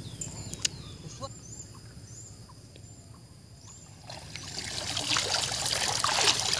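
Water splashing and sloshing from a pond, growing louder from about four seconds in, with a few faint high chirps before it.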